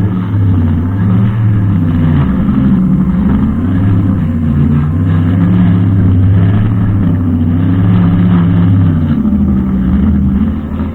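Brushcutter engine running at working speed, its pitch wavering and sagging briefly a couple of times as it meets load.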